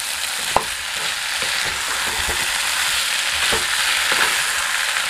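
Pigeon meat and potato chunks sizzling steadily in oil and spice paste in a non-stick kadai, at the stage of frying until the oil separates. A spatula stirs and scrapes through them in irregular strokes, with a sharper knock on the pan about half a second in.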